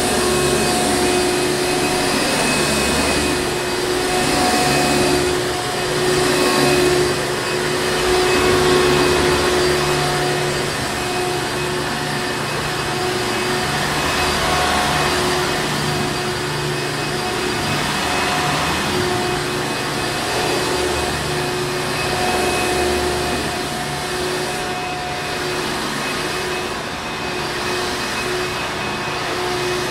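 Hoover Encore Supreme vacuum cleaner running steadily: a continuous motor whine over rushing air, with a low hum that swells and eases slightly.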